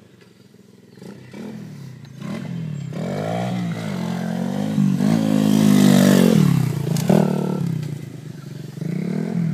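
Pit bike's small single-cylinder engine revving up and down through the gears as it rides, getting louder to a peak about halfway through, then falling away and rising again near the end, with a sharp knock about seven seconds in.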